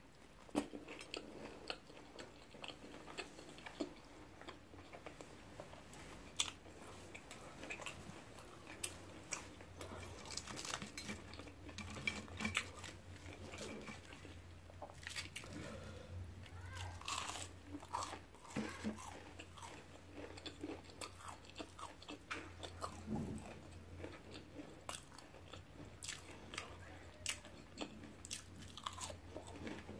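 Close-miked eating: chewing a bite of avocado cheeseburger, then biting and crunching fried onion rings, with many short crisp crackles and wet mouth clicks. A faint steady low hum runs underneath from a few seconds in.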